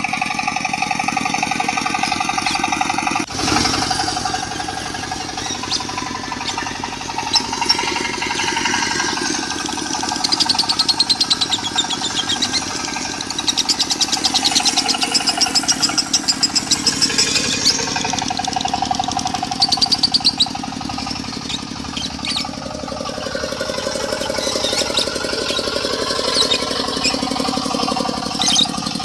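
Lovebird song, high rapid chattering trills coming and going, mixed over a diesel engine running with a fast, even pulse. The mix changes abruptly about three seconds in.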